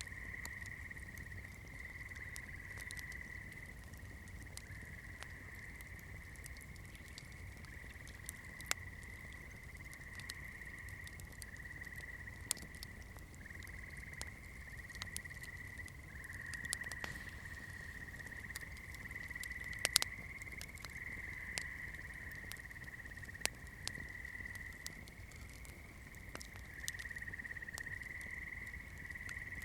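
Campfire crackling, with scattered sharp pops and a low rumble from the burning wood. A steady high-pitched drone that wavers slightly in pitch runs beneath it.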